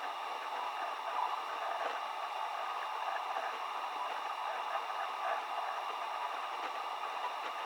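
Steady trickling and gurgling of water at a small mountain pool or stream.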